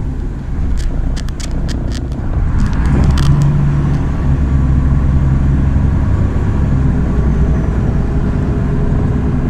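MAZ-103 city bus diesel engine running. A quick series of sharp clicks and rattles comes in the first few seconds. From about three seconds in the engine pulls louder and steadier, as the bus picks up speed.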